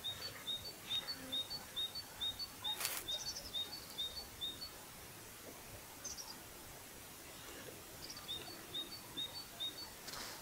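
A small songbird singing a rhythmic series of high two-note phrases, about two a second, in two bouts with a pause between. A single sharp click comes about three seconds in.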